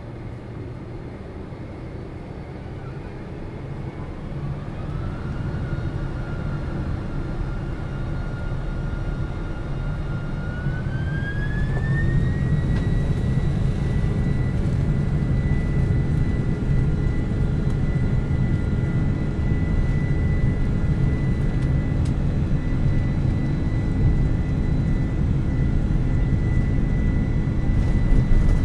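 Airliner jet engines spooling up to takeoff power. A whine rises about four seconds in, levels off, then climbs again and settles into a steady high whine over a low rumble that grows louder.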